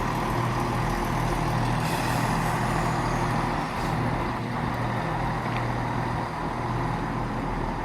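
Class 170 Turbostar diesel multiple unit idling at the platform: a steady low engine hum with a constant hiss of fans and compressors.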